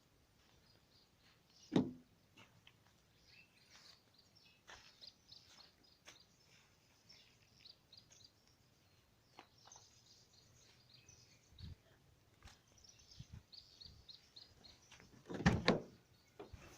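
Small birds chirping on and off, with a single thump about two seconds in and a louder knock near the end.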